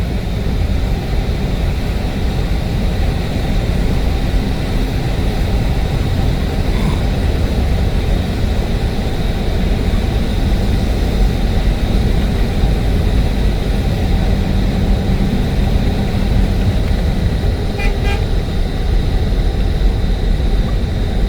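A car driving on a rainy road: a steady rumble of engine and tyres that holds even throughout.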